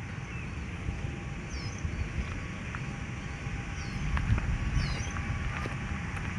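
Outdoor ambience: a steady low rumble with a few short, high bird chirps and faint clicks.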